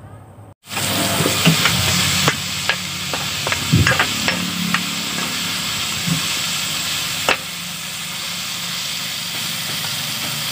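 Sliced onion, garlic and tomato sizzling in hot oil in a pan, starting abruptly about half a second in. A metal spatula stirs them, with scattered sharp scrapes and clicks against the pan.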